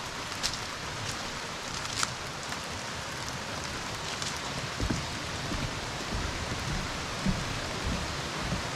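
Mountain stream water rushing over rocks, a steady hiss with a few light clicks.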